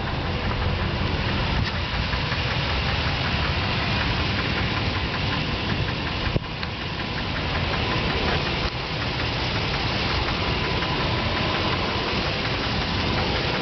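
A 2007 Nissan Titan's 5.6-litre V8 running steadily with a rapid, even knocking ticking through it: the engine knock the owner is showing. A single sharp click about six and a half seconds in.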